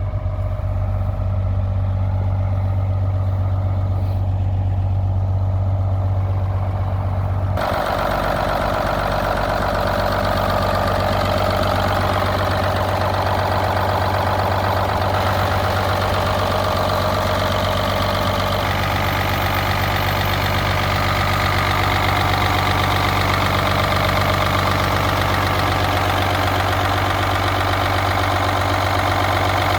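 GMC Brigadier grain truck's engine idling steadily. About eight seconds in, the sound turns abruptly brighter and harsher, and stays that way.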